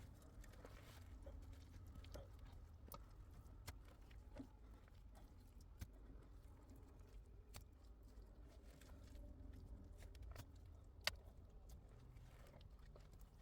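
Near silence with a low rumble and scattered faint clicks and taps, the sharpest one about eleven seconds in.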